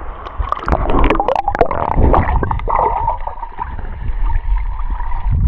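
Sea water splashing and sloshing close to the microphone, with gurgling and many small irregular splashes.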